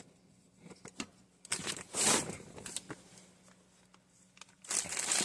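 Hands handling small parts and packaging: a few light clicks, then a burst of rustling about two seconds in and another starting near the end.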